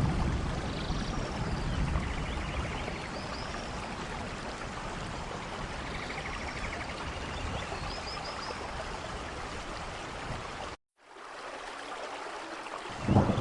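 Steady rain hiss with a few faint high chirps. The sound cuts out completely for a split second about eleven seconds in, then comes back quieter. A low roll of thunder begins right at the end.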